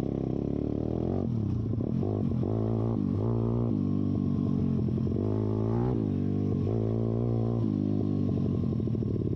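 YCF pit bike's single-cylinder four-stroke engine running under way, its exhaust open with the spark arrestor removed. The engine pitch rises and falls several times as the throttle is opened and closed.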